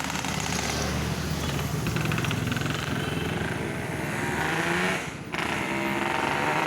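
Motorcycle with an MRP C20+SP aftermarket exhaust running under throttle, its note rising. About five seconds in it drops out briefly, then picks up again.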